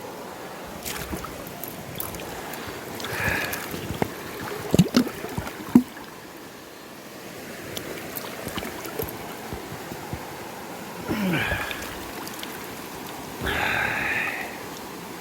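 Steady rush of a swollen, rain-flooded river, with a few louder knocks and splashing sounds about a third of the way in and again near the end.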